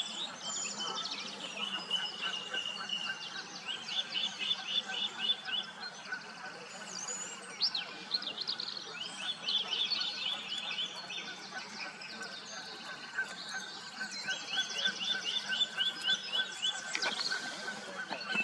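Songbirds singing: short, rapid trilled phrases repeated every few seconds.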